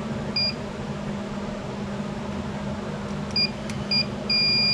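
Electronic circuit tester beeping while probing the ignition coil circuit: a short beep, two more short beeps near the end, then a long steady tone, showing the coil has power with the key on.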